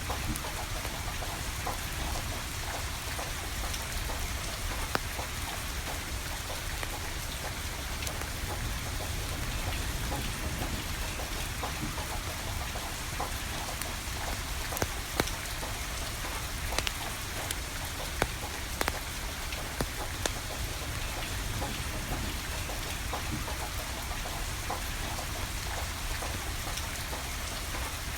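Steady rain hiss with a wood fire crackling, giving scattered sharp pops, several of them in a cluster around the middle.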